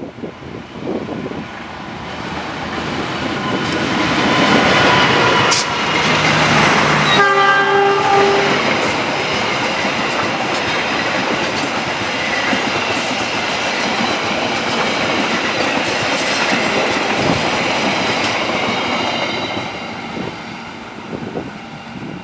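A GE CC206 diesel-electric locomotive and its passenger coaches pass close by at speed. The noise builds as the locomotive arrives, and a horn sounds for about two seconds, about six seconds in. The steady running noise and clickety-clack of the coaches follow, dying away near the end.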